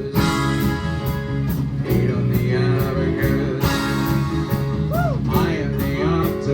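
Live rock band playing a song: electric guitars, synth and bass over drums whose cymbals keep a steady, quick beat, with a few bending, sliding notes near the end.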